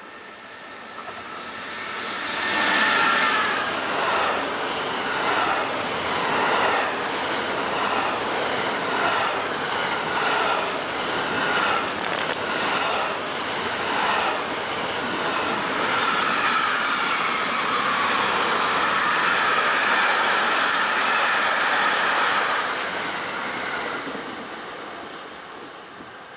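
A train passing on the track: it swells up over the first couple of seconds, then the wheels clatter over the rail joints in a regular beat of about one knock a second, turning to a steadier rolling sound later on before it fades away near the end.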